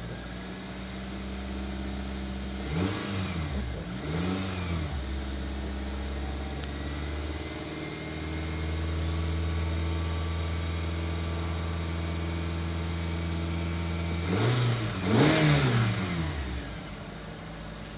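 Nissan X-Trail 2.5-litre four-cylinder petrol engine idling, blipped twice a few seconds in and twice more near the end, the revs rising and falling quickly each time.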